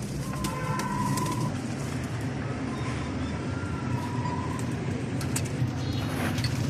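Pigeons cooing over a steady low rumble, with two held, clear higher notes of about a second each, one near the start and one in the middle.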